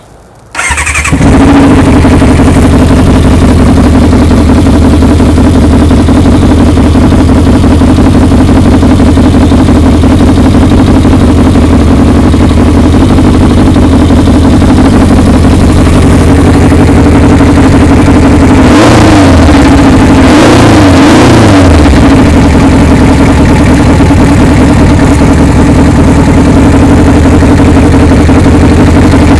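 1997 Kawasaki Ninja 600 (ZX-6) inline-four engine starting about a second in, then idling steadily and pretty loud because its exhaust pipe is missing. It is revved briefly a few times about two-thirds of the way through.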